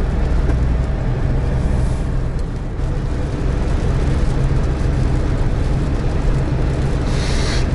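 Cab noise of a GAZelle Next light truck driving: a steady low engine drone under road and wind noise, with a brief rise in hiss near the end.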